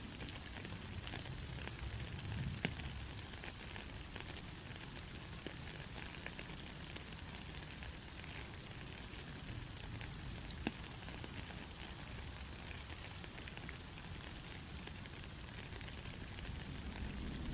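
Steady hiss of a sleep-aid white-noise track, with scattered faint crackles and ticks over a soft low rumble.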